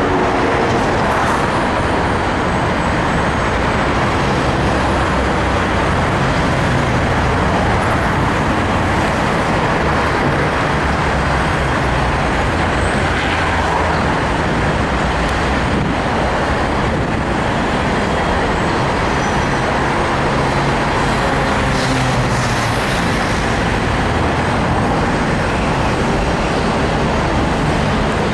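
Steady road traffic noise: engines of passing cars and buses on a busy avenue.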